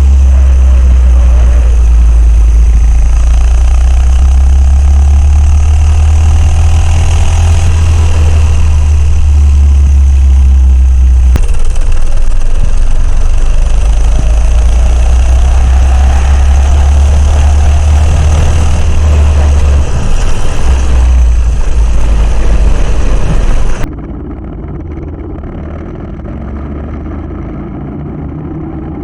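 Coleman CC100X minibike engine running while being ridden, its pitch rising and falling with the throttle, under heavy wind rumble on the microphone. The sound cuts abruptly a few times, and from about five seconds before the end it is much quieter and duller.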